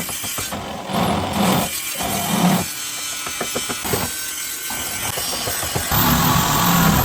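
A power tool working rusted car-body sheet steel in uneven passes, easing off for a couple of seconds partway through before biting in again.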